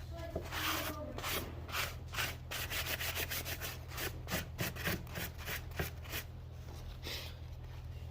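Repeated rubbing strokes, about three a second, thinning out near the end, over a steady low hum.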